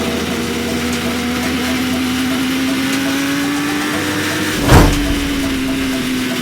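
Sport motorcycle engine running at steady riding revs under wind noise, the note rising slightly and then easing back. One sharp thump about four and a half seconds in is the loudest moment.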